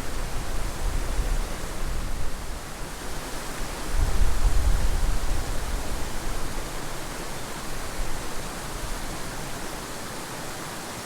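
Small mountain creek running, a steady rush of water, with a low rumble swelling for a couple of seconds about four seconds in.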